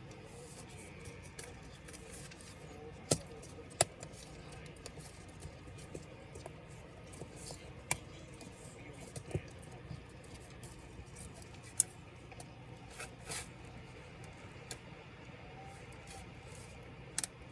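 Scattered sharp clicks and taps of small hard laptop parts and tools being handled during disassembly, about seven in all at uneven intervals over a low steady background.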